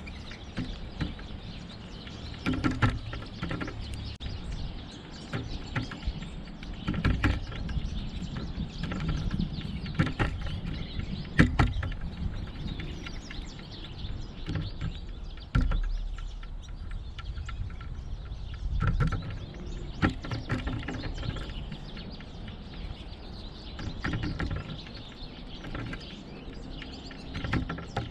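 Birds chirping now and then, with sharp knocks at uneven intervals over a low outdoor rumble, and a dull thump about halfway through.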